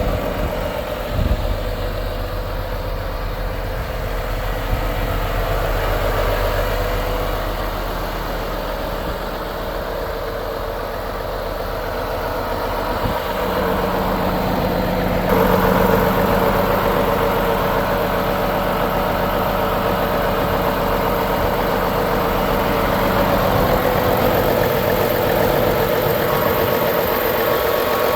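Volvo FH 500 truck's 13-litre six-cylinder diesel idling steadily. A brief thump comes about a second in. About halfway through, the sound suddenly gets louder and brighter, with a thin high whine on top.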